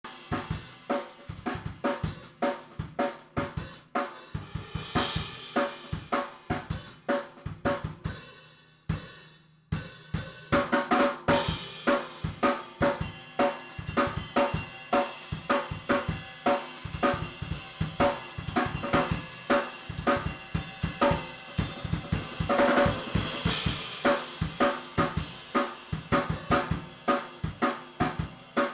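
Drum kit played fast in a practice shed session, with quick snare, bass drum and cymbal strokes. The playing thins out and fades about eight seconds in, stops for a moment, then comes back louder and denser around ten seconds in.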